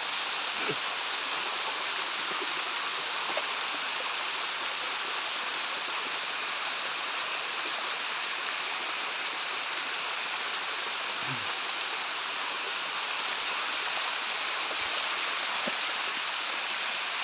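Steady rush of water from a stream and small waterfall flowing over rocks.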